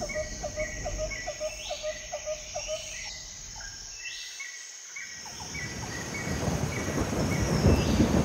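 Nature sound effects: a steady rhythmic chirping, about three chirps a second, fades out about three seconds in. From about five seconds in, a rushing rain-like noise swells up and grows louder toward the end.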